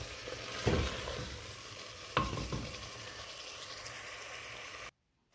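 Chicken and spices sizzling in ghee in a clay pot while a wooden spoon stirs them, knocking against the clay a few times. This is the bhunai stage, frying the masala until the oil rises to the top. The sound cuts off suddenly near the end.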